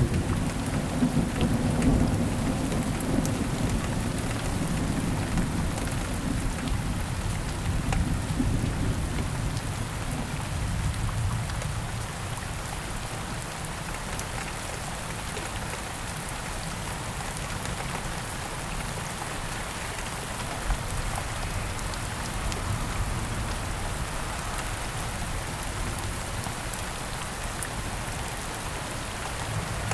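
Steady rain falling, with a low rolling rumble of thunder in the first third that dies away about ten seconds in, leaving the rain alone.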